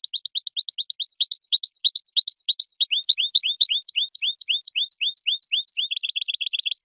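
European goldfinch singing: a fast, continuous run of twittering chirps, several a second, ending with a quick trill and a falling note.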